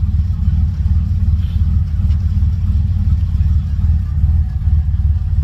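TVR Tuscan Speed Six 4.0-litre straight-six engine idling steadily after a cold start, a deep, even low note.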